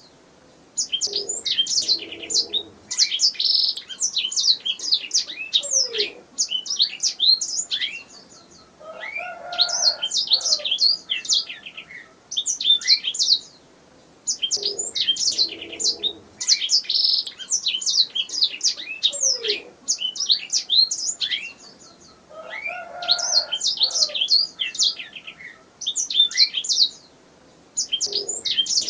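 Domestic canary singing: phrases of fast, repeated high chirps and trills, each lasting a few seconds, with short pauses between phrases and a few lower notes mixed in.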